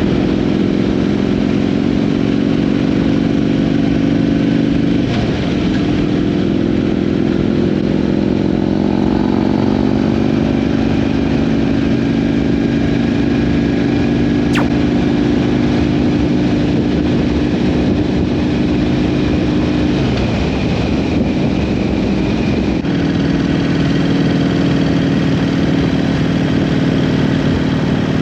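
Motorcycle engine running under way at a steady cruise. Its pitch shifts about five seconds in and twice more in the last third, as the throttle or gear changes.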